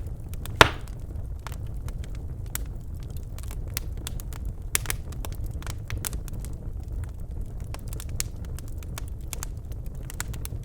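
Birch logs burning in a fireplace: frequent sharp crackles and small pops over the low, steady rumble of the flames, with one loud pop about half a second in.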